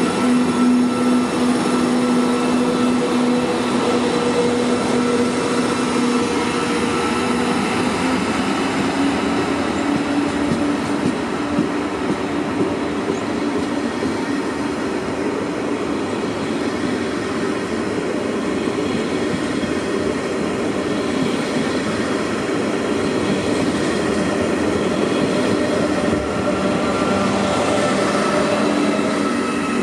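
KTX-Sancheon high-speed electric train pulling away and gathering speed. Its power car's steady motor hum steps up in pitch about eight seconds in, over the rolling of wheels on rail as the cars pass. A similar hum comes back near the end as the rear power car approaches.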